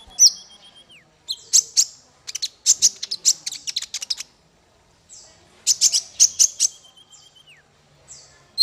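Small songbird singing: thin high whistles and fast, sharp chirping trills in three bursts, with a pause of about a second midway.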